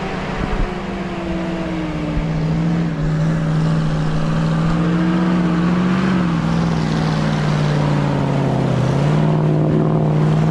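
GAZ-66 army truck's V8 petrol engine working hard under load in sticky clay mud, its note slowly sagging lower, dipping about nine seconds in, then picking up again near the end.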